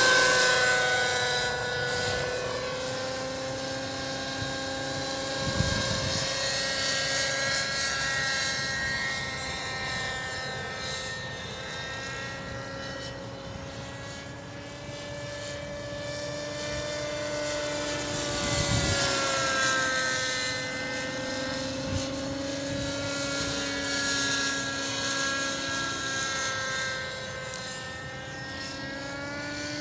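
JR Air Skipper 50 radio-controlled helicopter's engine and rotors running in flight, a steady high engine note whose pitch drifts gently up and down. It grows louder and fainter as the helicopter moves about, loudest near the start and about two-thirds of the way through.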